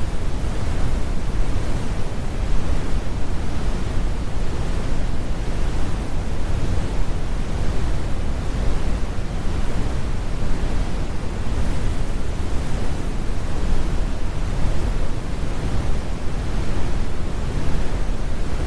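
Steady synthetic brown noise: an even, deep rumble with the high end cut away, like an airplane cabin or distant surf, unchanging throughout.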